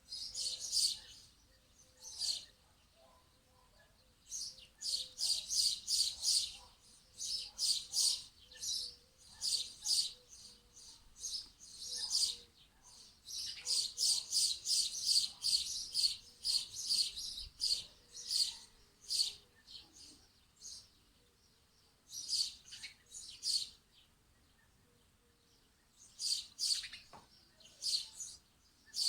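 Small birds chirping: quick runs of short, high chirps, several a second, broken by pauses of a second or two.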